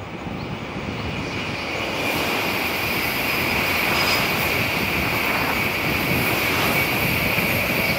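Tokaido Shinkansen high-speed train running past: a rushing noise of wheels and air that swells over the first couple of seconds and then holds steady, with a high-pitched whine over it.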